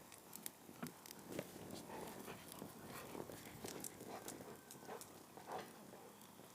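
Faint, irregular soft taps and clicks of food and kitchenware being handled by hand.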